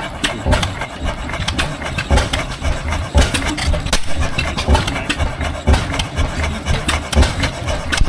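Antique engine running, its firing pulses coming unevenly, several to a second.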